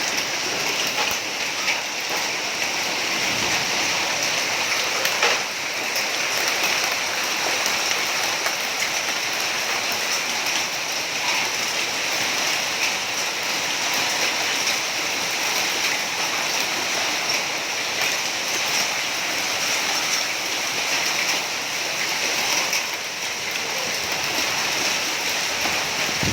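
Heavy rain mixed with hail pouring down, a steady dense hiss with scattered sharp ticks of hailstones striking surfaces.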